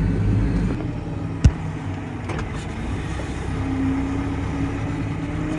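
Tractor engine running steadily, with a single sharp click about one and a half seconds in.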